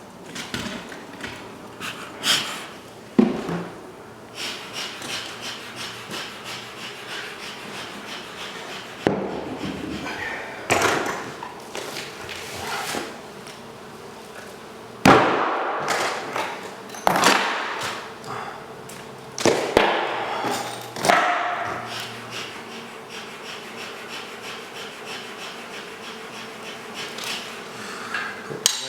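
Irregular knocks and bangs of hand tools working at a wall, a dozen or so sharp impacts at uneven gaps, the loudest about 15 s in.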